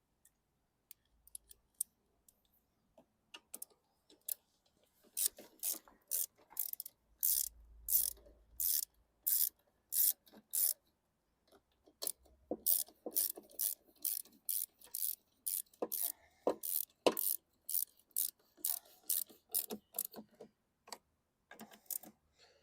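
Hand socket ratchet clicking in quick runs of sharp clicks as screws are driven.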